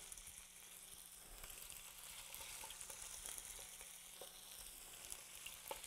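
Thin chicken breast strips sizzling in hot oil in a stainless steel skillet: a faint, steady high hiss with a few light clicks.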